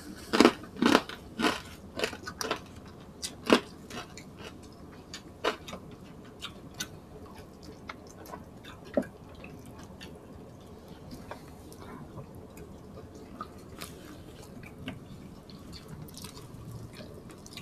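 Close-up eating sounds of roast chicken: wet mouth clicks and smacks of chewing, frequent in the first four seconds, then sparser.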